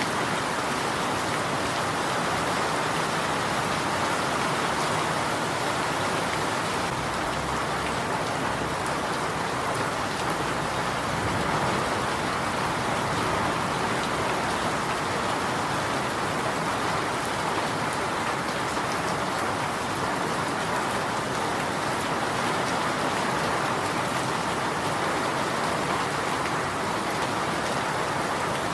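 Steady rain falling, a continuous even hiss with fine patter of drops on surfaces.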